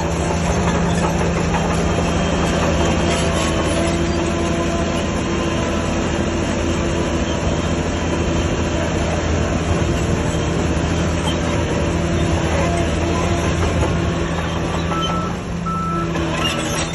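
Crawler bulldozer's diesel engine working hard with its steel tracks clanking and squealing. A few short beeps come near the end.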